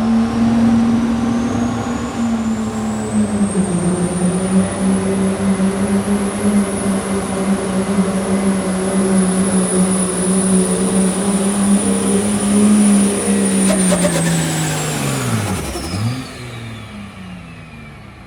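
Pulling truck's diesel engine under full load on a pull, with a high whine climbing and holding over the engine note. About fifteen seconds in the throttle comes off: the engine note and whine fall away and the sound dies down.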